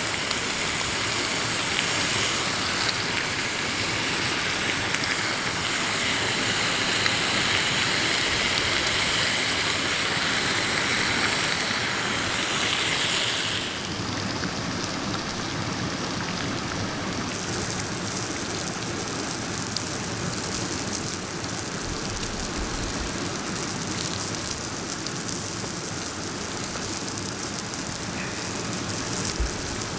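Steady rushing of running water. About halfway through it abruptly becomes less hissy, and there is a brief low thump near the end.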